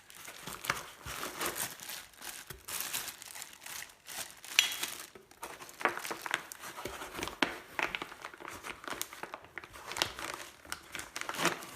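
Packaging crinkling and rustling as it is handled and pulled open by hand, in irregular crackles, with one sharper crackle about four and a half seconds in.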